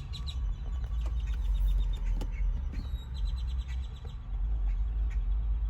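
Quick runs of high bird chirps over a steady low rumble, with a single sharp click about two seconds in.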